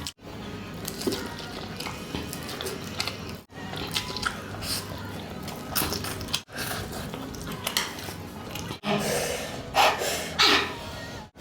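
Close-miked eating sounds: wet chewing and slurping of spicy instant noodles, with scattered short clicks. The sound breaks off into brief dead silences several times, and two louder bursts come near the end.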